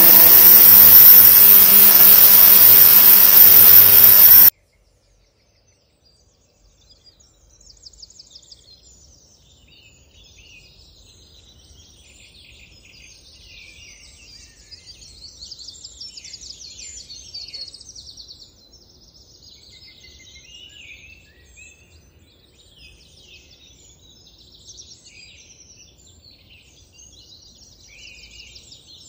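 Loud music that cuts off abruptly about four seconds in, then faint birdsong: many short, scattered chirps.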